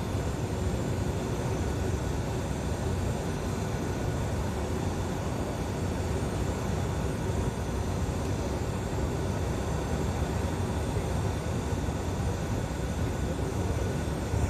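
An engine running steadily at a constant speed under test: an even, dense drone with faint steady whining tones over it.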